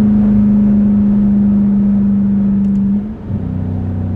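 Straight-piped 2021 Dodge Durango R/T's 5.7-litre HEMI V8, with H-pipe and race-bullet resonators, pulling hard with a loud, steady exhaust drone. About three seconds in the note rises slightly, breaks off and drops to a lower, quieter note, as with an upshift or a lift off the throttle.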